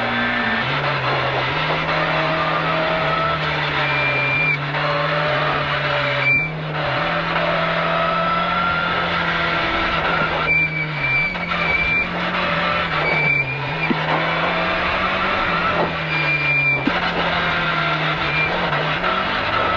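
Peugeot 205 rally car's engine heard from inside the cabin while the car is driven hard, its note rising under load and dropping several times as the driver lifts off or changes gear.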